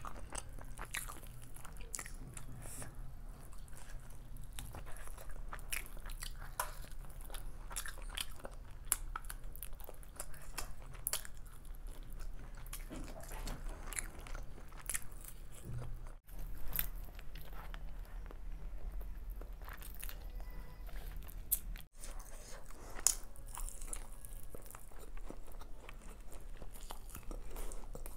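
Close-miked eating of chicken biryani by hand: wet chewing and biting with many small sharp clicks and crunches over a steady low hum. The sound drops out briefly twice, near the middle and about two-thirds of the way in.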